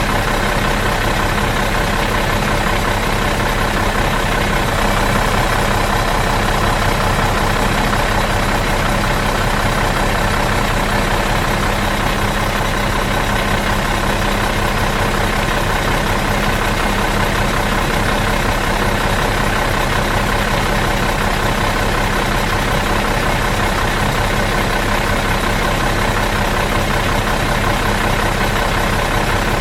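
Bus engine idling steadily out of gear, a constant even hum with no revving or changes.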